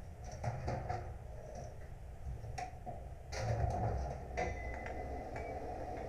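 Scattered light clicks and knocks of objects being handled on a workbench, with a louder clatter about three and a half seconds in.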